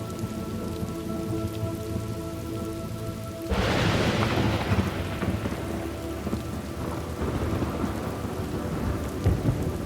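Thunderstorm ambience: steady rain, with a sudden thunderclap about three and a half seconds in that rumbles away over the next few seconds.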